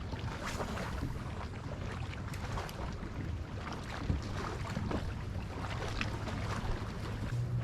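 Small waves lapping and splashing in short, irregular slaps, over a steady low rumble with wind on the microphone.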